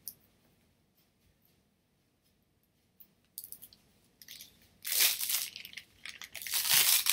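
Crinkling and rustling of material being handled. It starts about three seconds in and comes in two louder bouts, near five and seven seconds.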